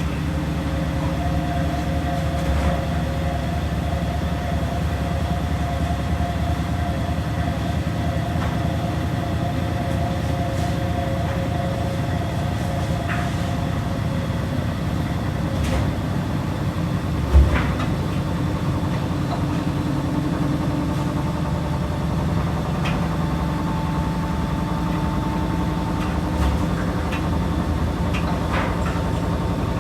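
Washing machines running with a steady low mechanical rumble and a faint steady whine over it, and a single thump about halfway through.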